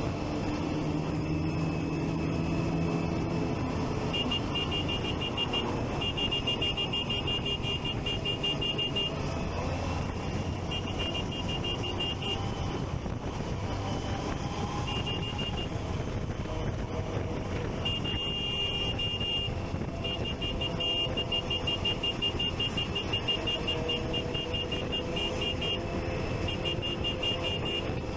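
Motorcycle engines and traffic during a group ride, among them a Triumph Street Triple 675. A high electronic beeping pulses rapidly on and off in stretches through most of it.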